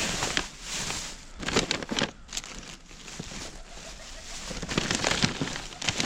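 Rustling and irregular clattering of rubbish being rummaged through by hand, with sharp knocks every so often.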